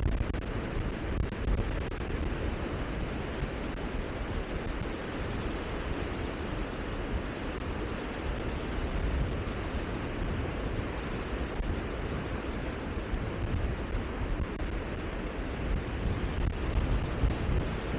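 Steady rushing wind noise with a heavy low rumble of wind buffeting the microphone, running unbroken with small swells in level.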